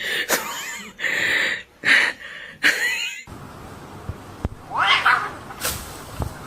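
Cats meowing and yowling: several loud calls in the first three seconds, then one more, rising and falling, about five seconds in.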